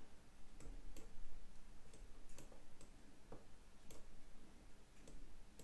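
Computer mouse clicking: about nine sharp, separate clicks at uneven intervals.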